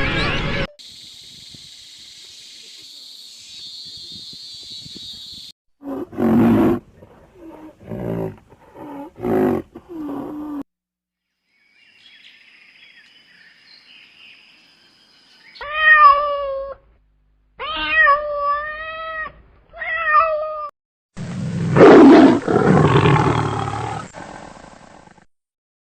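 A run of animal calls: a few short, low roars, then four high cries that bend in pitch, then one long, loud roar.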